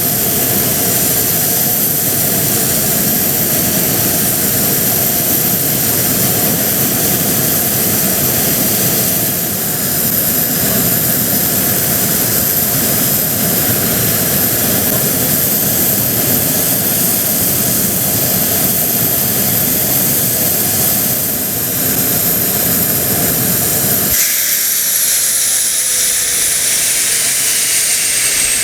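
Mitsubishi F-2B fighter's jet engine running loudly with a steady high whine over a dense rumble. About three-quarters of the way through, the rumble drops away abruptly and the whine slides slowly down in pitch.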